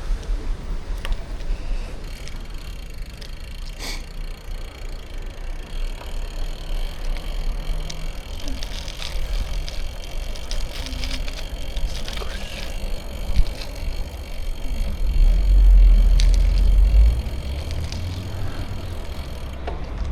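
Bicycle riding along, with tyre noise and wind rumbling on the microphone; the rumble swells in a strong gust about three-quarters of the way through. Occasional sharp clicks and rattles from the bike.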